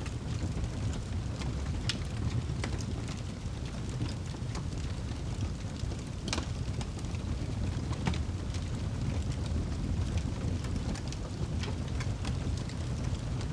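Wood fire burning in a fireplace: a steady low rumble of the flames with irregular crackles and pops of the burning wood.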